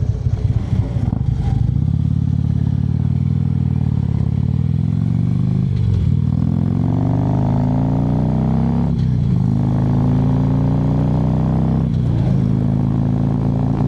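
Harley-Davidson V-twin motorcycle idling with an uneven lope, then pulling away and accelerating. The engine note climbs and drops back three times as it shifts up through the gears, then settles into a steady cruise.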